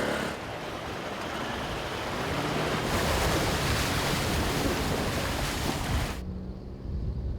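Steady rushing of moving floodwater with wind on the microphone, changing abruptly at cuts about a third of a second in, about three seconds in and about six seconds in, where the hiss drops away and only a low rumble stays.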